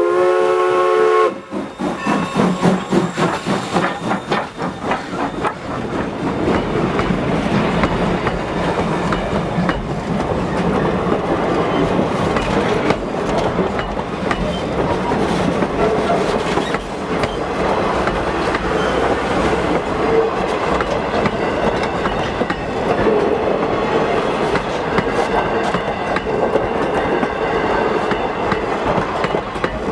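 A steam locomotive's PRR three-chime whistle sounds a chord that cuts off about a second in. It is followed by a few seconds of pulsing exhaust beats, then the steady clatter of the train rolling past.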